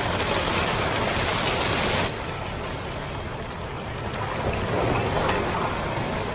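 Heavy thunderstorm rain drumming steadily on the roof of a small motorhome, heard from inside; it eases slightly about two seconds in.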